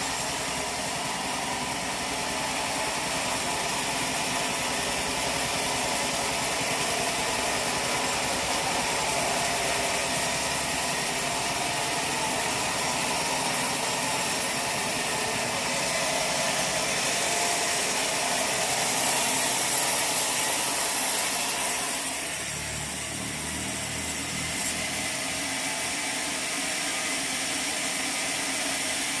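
Sawmill machinery running: a steady mechanical noise that dips briefly about three quarters of the way through, then carries on.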